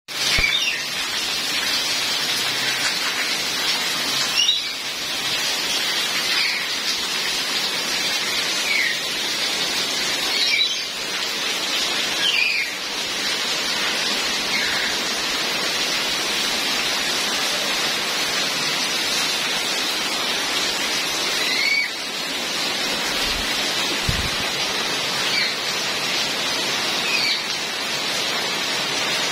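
Steady rain falling, with short bird chirps every couple of seconds.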